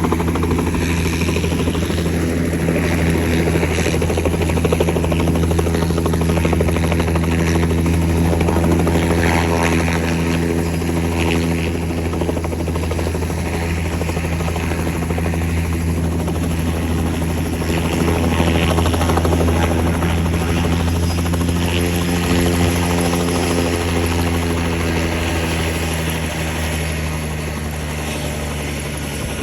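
Helicopter landing: the rotor and turbine run loud and steady, with the pitch of the rotor drone shifting a few times, and the sound easing slightly near the end.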